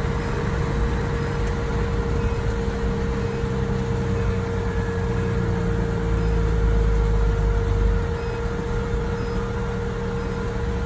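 A fire engine's diesel engine running, a steady low rumble with a constant whine above it; the rumble eases off about eight seconds in.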